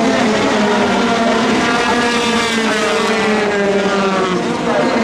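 Several racing car engines revving together, their overlapping notes climbing slowly as the cars accelerate.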